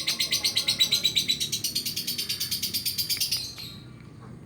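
Lovebird's long, rapid chattering trill (the 'ngekek' call), about a dozen shrill notes a second, which breaks off about three and a half seconds in.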